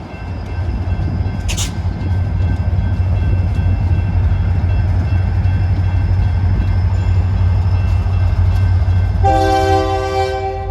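Marquette Rail diesel locomotive running slowly past with a steady low rumble, a short sharp clank about a second and a half in. Near the end the locomotive's air horn sounds one short blast of about a second.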